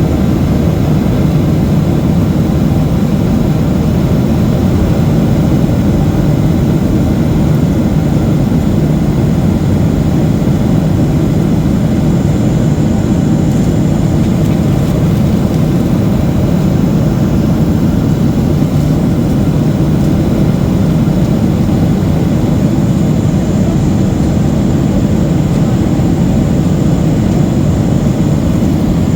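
Steady cabin roar of a Boeing 737-800 airliner in flight: jet engine and airflow noise heard from inside the passenger cabin, low and even throughout.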